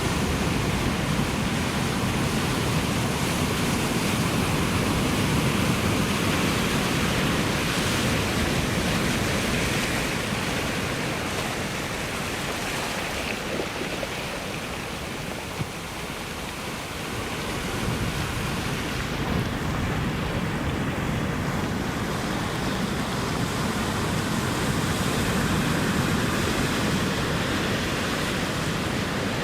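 Ocean surf washing onto the shore in a steady rushing noise that swells and eases as the waves come in, easing off about halfway through and building again.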